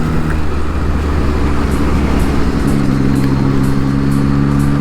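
Three-cylinder engine of a 2021 Yamaha MT-09 running as the motorcycle is ridden, over a loud low rumble; its steady engine note comes through clearly again from about halfway in. A faint regular ticking, about two a second, runs through the second half.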